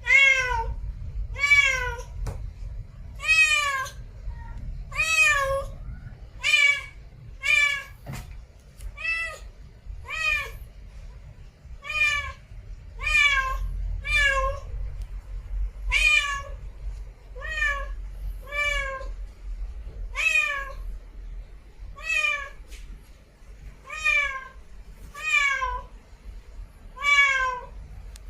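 A cat meowing over and over, about twenty short calls roughly one every second or so, each rising and then falling in pitch.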